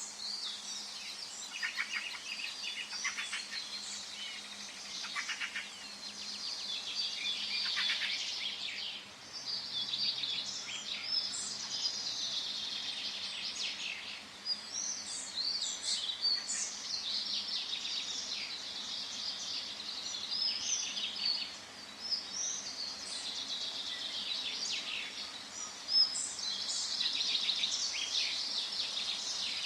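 Forest birdsong: several birds singing and chirping at once, with fast trills and short repeated notes, over a faint steady background.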